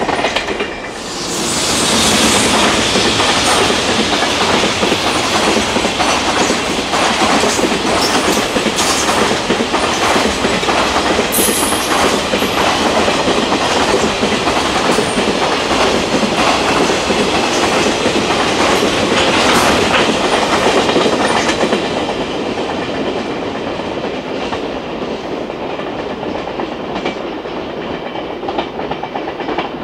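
Container freight train wagons rolling past, their wheels clattering steadily over the rail joints. The sound eases off over the last several seconds as the tail of the train draws away.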